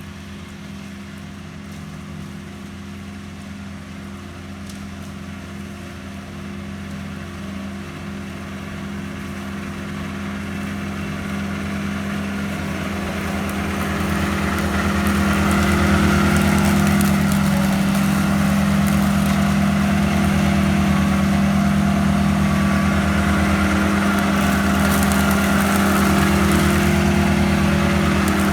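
Walker ride-on lawn mower engine running at a steady speed, growing steadily louder for about the first fifteen seconds and then holding level.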